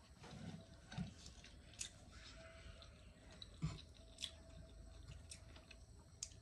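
Quiet chewing of a mouthful of vegetable chow mein noodles, with a few soft, sharp clicks and smacks scattered through.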